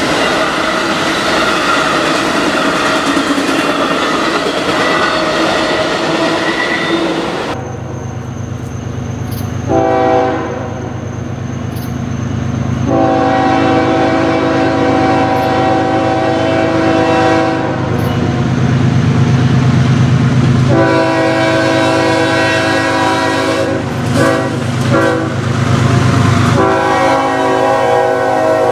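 A train rolls past with wheel and rail noise for the first seven seconds or so. Then a diesel locomotive's air horn sounds over the engine's steady rumble: one short blast, then long, long, short, long, the grade-crossing signal.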